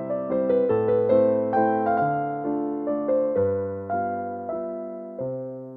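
Slow solo piano music: single notes and chords struck roughly every half second and left to ring, getting quieter near the end as the piece fades out.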